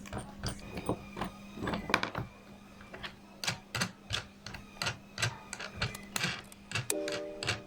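Flower press being opened and handled: an irregular run of quick clicks and taps. Background music comes in near the end.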